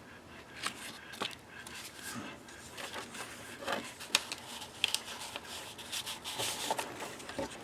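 Paper rustling and rubbing as the pages and tags of a handmade journal are turned and handled, with several short soft taps scattered through.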